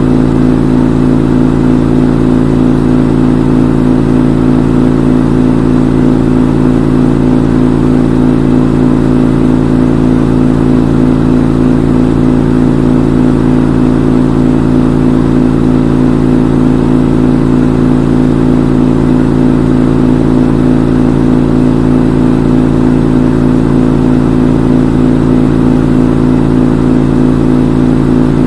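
Front-load washing machine in its spin cycle, the drum spinning at a steady high speed with a loud, even hum.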